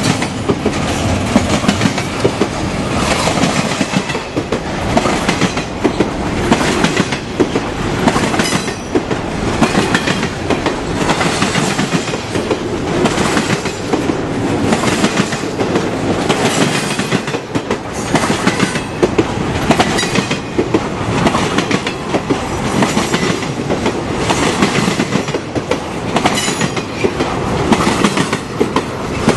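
Railroad cars rolling past close by, their wheels clicking over the rail joints in a steady, even rhythm, with a constant rumble and rush of wheels on rail.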